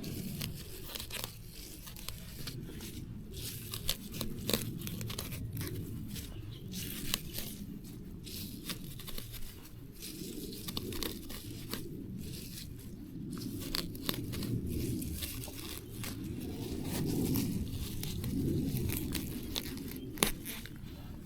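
Plants being torn up and snapped by hand: irregular tearing, crunching and crinkling, with many short sharp snaps.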